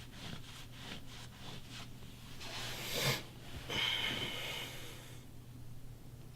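A man in bed making loud nose noises: a rising snort about three seconds in, then a longer noisy nasal breath, after a run of short rustles of bedding.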